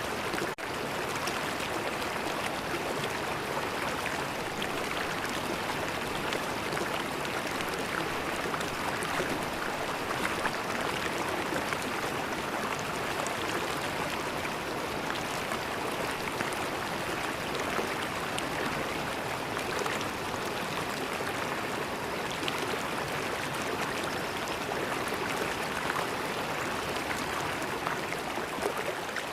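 River water flowing steadily, a continuous rush of running water, with a brief dropout about half a second in.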